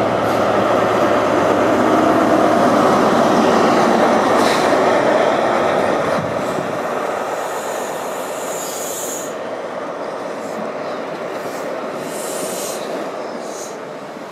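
First Great Western High Speed Train (InterCity 125) running past close by: the Class 43 diesel power car's engine and wheels are loudest over the first few seconds, then the quieter rolling rumble of the Mark 3 coaches follows. A brief high squeal comes about eight to nine seconds in.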